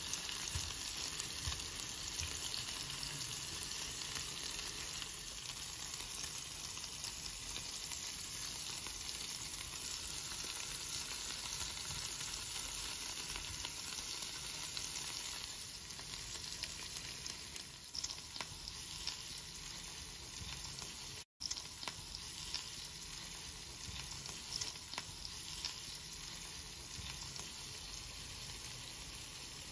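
Zucchini and carrot patties sizzling steadily as they shallow-fry in oil in a nonstick pan over medium heat, with occasional light scrapes and taps of a silicone spatula. The sound cuts out for an instant about two-thirds of the way through.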